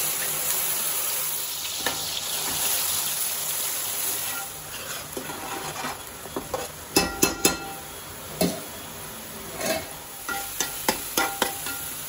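Onion paste sizzling loudly as it goes into hot oil in a metal pot, the hiss easing off after a few seconds. Then a steel slotted spoon stirs and scrapes the frying paste, with sharp clinks and taps of the spoon on the pot in the second half.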